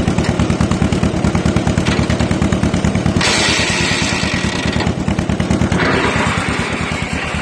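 John Deere M tractor's two-cylinder engine running at a steady, even beat. A harsher rushing noise rides over it for a few seconds partway through, while the PTO is taken out of gear and the flywheel put in.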